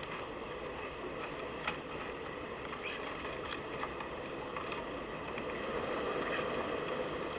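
Steady outdoor background noise with a few sharp clicks and taps scattered through it, roughly a second apart.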